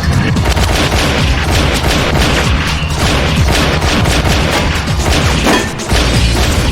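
Loud action-film sound mix: music under a dense run of crashes, booms and sharp impacts over a heavy low rumble, with a short drop a little before the end.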